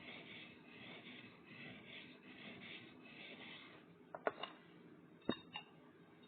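Knife blade being stroked back and forth on an oiled sharpening stone, a soft rhythmic rubbing at about two strokes a second, then the rubbing stops and a few sharp clicks follow.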